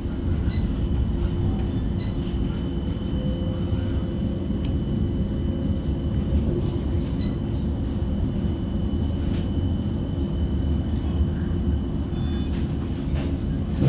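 On board a CAF Urbos 3 tram running between stops: a steady low rumble of the wheels on the rails, a thin steady high whine, and a few light clicks.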